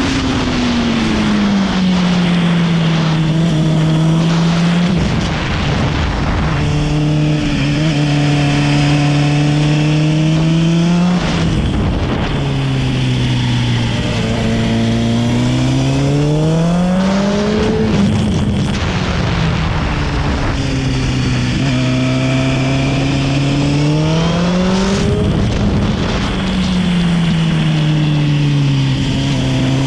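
A motorcycle engine revving up and down as it laps a go-kart track. Its pitch climbs under acceleration and drops off into the corners every few seconds.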